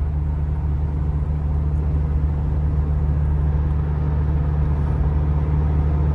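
GAZelle van driving at a steady speed, heard from the cab: an even low engine drone over tyre and road noise.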